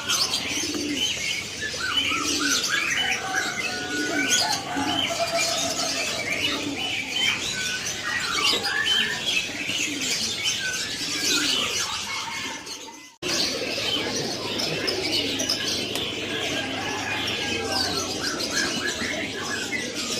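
Many caged birds calling at once, a dense chorus of overlapping chirps, trills and whistles. The sound cuts out for a moment about thirteen seconds in, then the chorus carries on.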